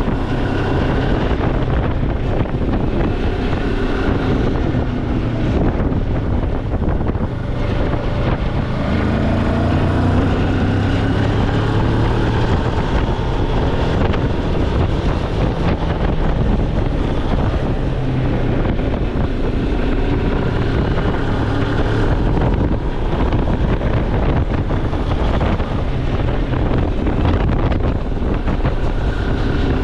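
Moto Morini X-Cape motorcycle engine running under way, with wind buffeting the microphone. The engine note climbs for a few seconds about eight seconds in.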